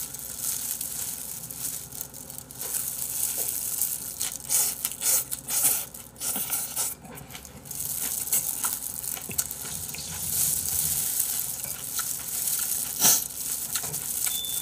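Close-miked eating: wet chewing of a big mouthful of bean sprouts and chicken feet, with the crackle of disposable plastic gloves pressing the food into the mouth and a sharp click about thirteen seconds in.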